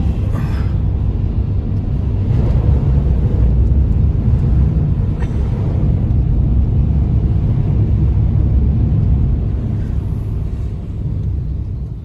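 Strong storm wind buffeting the microphone: a loud, steady low rumble with no pitch to it.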